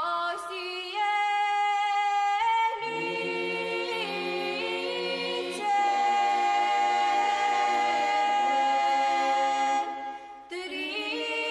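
Unaccompanied vocal music: several voices singing long held notes in harmony, stepping from one chord to the next, with a brief drop near the end.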